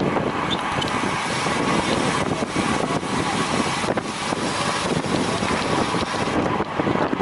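Wind rushing steadily over the microphone of a camera riding on a racing bicycle at speed.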